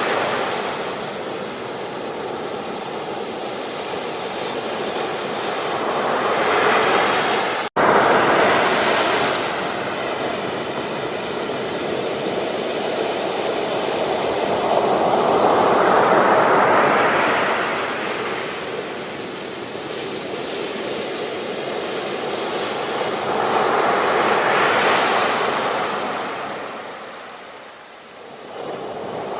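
Surf washing onto a beach, swelling and receding in slow waves about every eight to nine seconds. There is a split-second dropout in the sound about eight seconds in.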